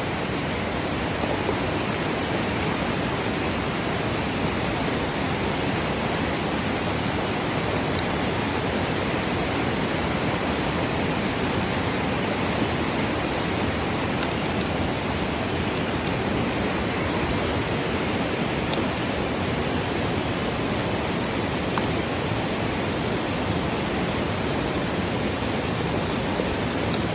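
A steady rushing noise that holds one even level throughout, with a faint tick about 19 seconds in.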